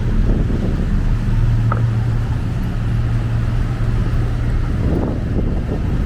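Busy city street traffic: a steady low engine rumble of nearby vehicles.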